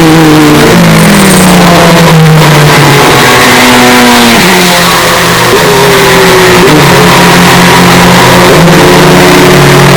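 Hyundai Elantra N's turbocharged four-cylinder engine and exhaust revving under acceleration, its pitch climbing and then dropping abruptly at several gear changes. The sound is boosted to the point of heavy distortion.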